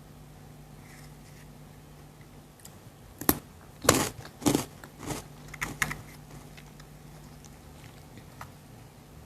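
A person biting into a crunchy chocolate snack with a sharp snap about three seconds in, then chewing it in a handful of loud crunches over the next two seconds.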